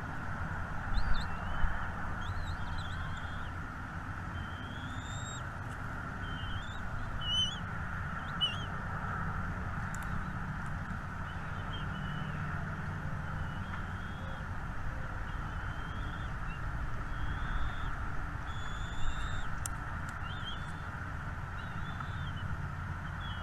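Small birds chirping: many short, high calls scattered throughout, over a steady background noise and a low rumble.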